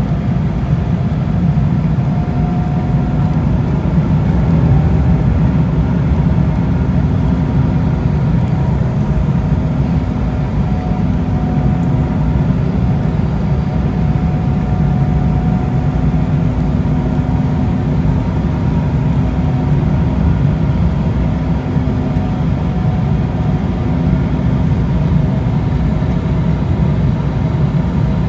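Cabin noise inside an Embraer E190 airliner in flight, from its GE CF34 turbofan engines and the airflow: a steady, deep drone with a few faint steady tones above it.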